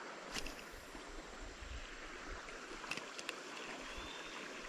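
Creek water running steadily and softly, with a few faint clicks.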